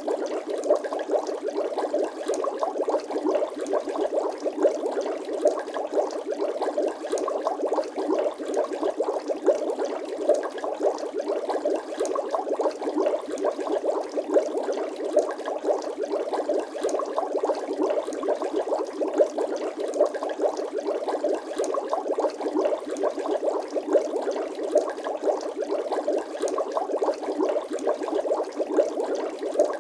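Bubbling water sound effect: a dense, even stream of small bubble pops and gurgles, with an occasional louder pop.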